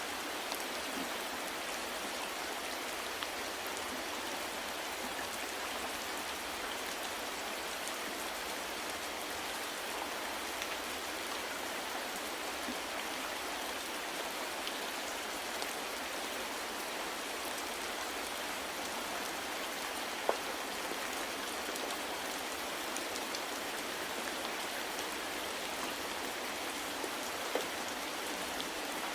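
Steady rain falling, an even hiss with scattered drops striking a surface and a couple of louder drips.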